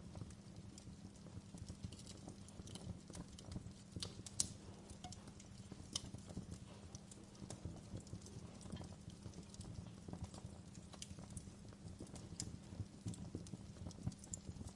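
Wood fire crackling in a fireplace: irregular small pops and snaps over a low steady rumble, with a couple of sharper pops about four and six seconds in.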